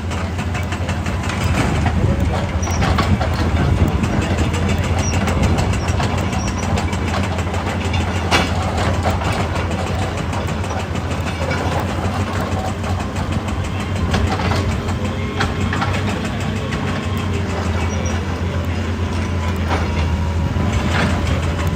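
Large hydraulic excavator's diesel engine running steadily under load, with rapid tapping throughout and a few sharper knocks, about eight seconds in and again near the end.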